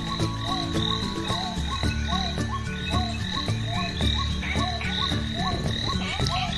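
Frogs croaking in a steady rhythm, about two calls a second, with regular high chirps and a low humming backing beneath.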